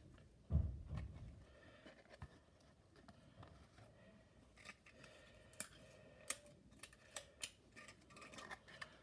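Scissors cutting tape to mend a torn cardboard piece: a couple of low thumps in the first second, then a string of short, sharp snips through the second half.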